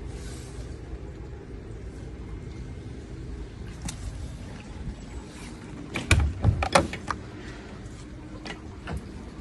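Steady rain and wind noise, then a quick cluster of sharp metallic clicks and clunks about six seconds in, from a vehicle door latch being worked.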